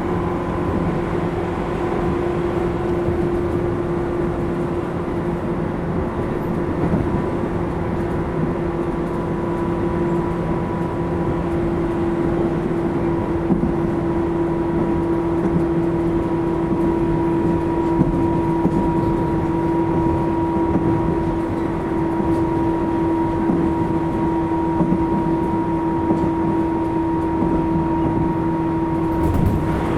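Interior running sound of a Tobu 10000 series electric train's motor car: a steady rumble of wheels on track with a constant motor hum, running at an even pace.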